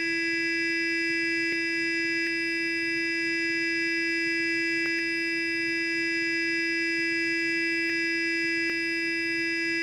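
Sonic electric toothbrush running continuously: a steady, high buzzing hum that does not change, with a few faint clicks.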